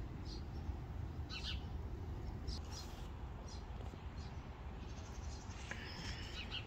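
Birds chirping in short, high calls a few times, over a steady low rumble.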